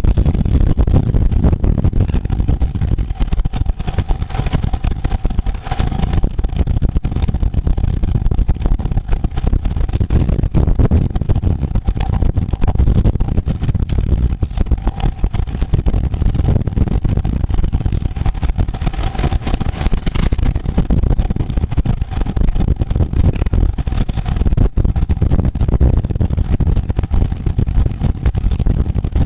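Wind rumbling and buffeting on the microphone of a camera carried on a road bicycle during a race, mixed with road noise. A faint steady hum comes and goes underneath.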